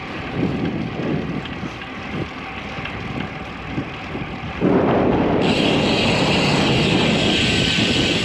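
Wind rushing over the microphone while riding a road bike in strong gusts. It jumps abruptly louder a little past halfway and stays loud.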